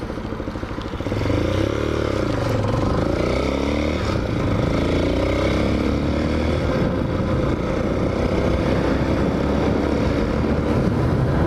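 Hawk 250 motorcycle engine accelerating: it picks up about a second in, its pitch rising and falling through the gears, then settles into steady running, with wind rushing over the microphone.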